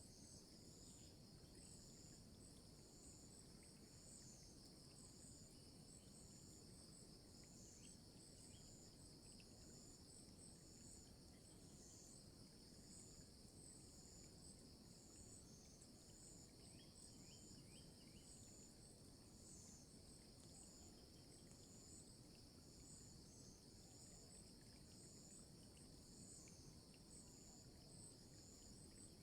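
Faint insect chorus, typical of crickets: a steady high-pitched buzz overlaid with a pulsing chirp repeating about once a second.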